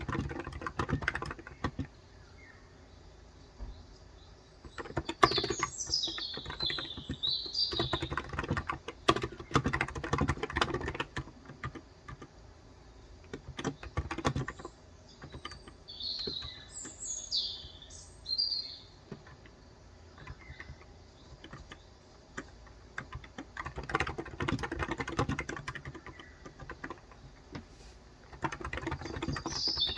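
Typing in bursts with pauses between them on a COX Endeavor 35 g electro-capacitive tenkeyless keyboard. Birds chirp in short high calls a few times, loudest in a pause between bursts.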